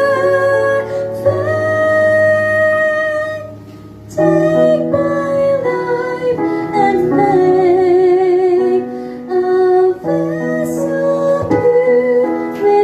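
Female voice singing a slow hymn over an instrumental backing track of guitar and piano, holding long notes with vibrato. The music dips briefly about four seconds in, then carries on.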